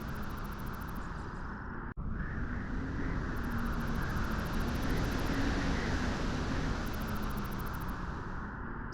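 Steady low rushing of wind on a beach, swelling slightly mid-way, with a momentary cut-out about two seconds in.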